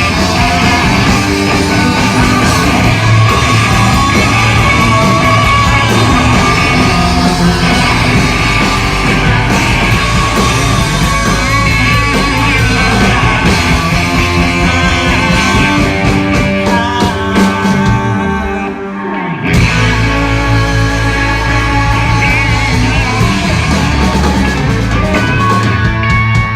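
Southern punk rock band playing loud live in a club, with guitars, bass and drums and shouted vocals. The band drops out briefly about two thirds of the way in, then crashes back in full.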